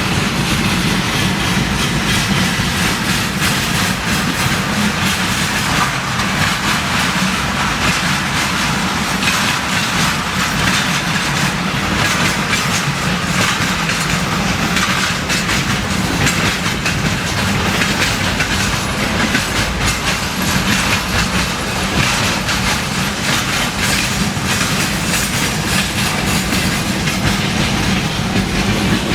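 A train running on the rails, with the wheels clattering over the track and a steady rushing noise that holds level throughout.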